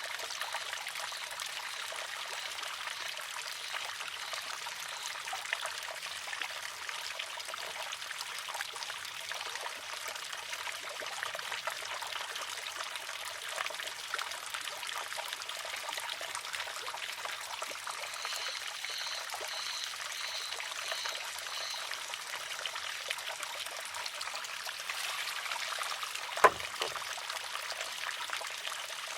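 Water trickling and pouring steadily through a wooden shishi-odoshi. About three seconds before the end, its wooden arm tips over and strikes the rock with a single sharp clack.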